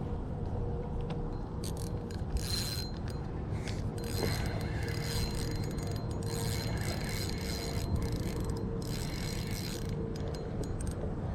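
Fishing reel ratcheting in repeated bursts while a hooked fish is played on light tackle, the reel worked and its clicker going as the fish pulls.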